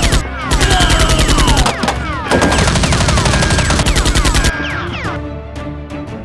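Movie-style machine-gun sound effects in fast bursts of roughly a dozen shots a second, with falling whistling tones among them, over background music. Near the end the bursts thin out to scattered single shots.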